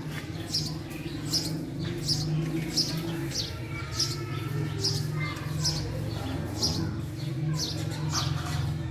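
A small songbird chirping, short high falling notes repeated about once or twice a second, over a steady low hum.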